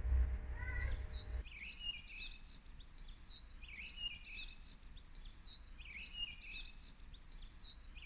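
Songbird singing a short chirping phrase again and again, about every two seconds. Under the first second or so is a low rumble that cuts off abruptly.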